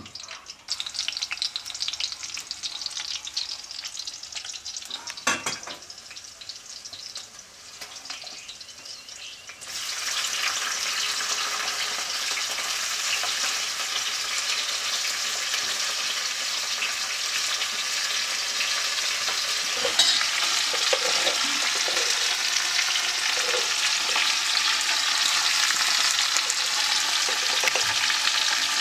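Sliced bitter melon frying in hot oil in a wok on a gas stove. The sizzle is faint with a few clicks at first, then about ten seconds in it turns suddenly into a loud, steady sizzle as the vegetables go into the oil. In the second half a spatula knocks and scrapes against the wok as the food is stirred.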